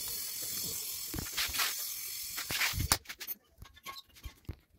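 Brazing torch hissing steadily at a copper pipe joint, fading after about a second and a half. A few knocks and clatters follow, then near silence for the last couple of seconds.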